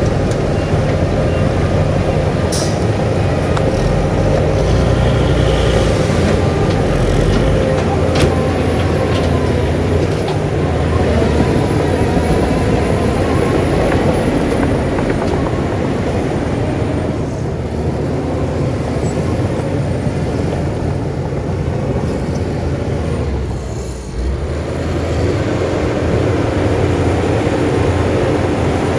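Heavy diesel earthmoving machinery running steadily under work, with a sharp knock a few seconds in and another about eight seconds in. Late on, the engine noise dips briefly.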